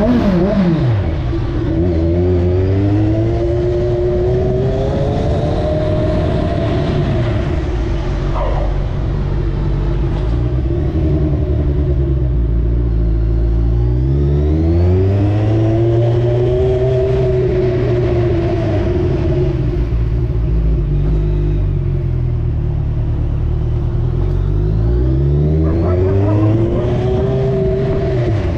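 Kawasaki Z1000 inline-four engine running under way, its revs climbing and falling again several times as the rider accelerates and eases off.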